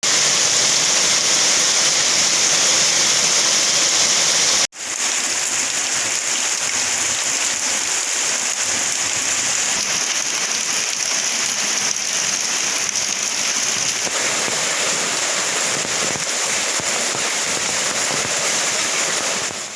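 Heavy rain falling, a loud steady hiss. It drops out for an instant about five seconds in and carries straight on.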